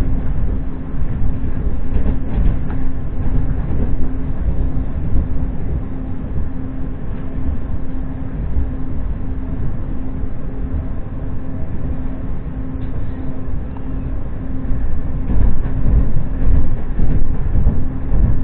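Inside a moving Ivolga electric commuter train: steady rumble of the wheels on the rails, with a low steady hum under it, growing louder for the last few seconds.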